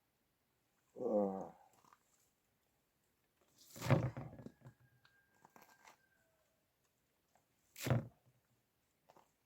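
Two sharp knocks about four seconds apart, the first the louder and a little drawn out. About a second in there is a brief, falling voice-like call.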